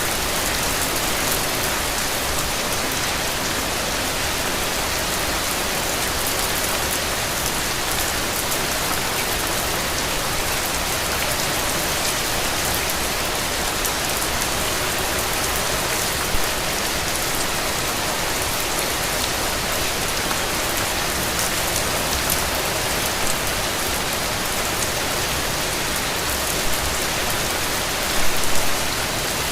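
Steady rain falling in an even, dense hiss, with a few louder spatters of drops near the end.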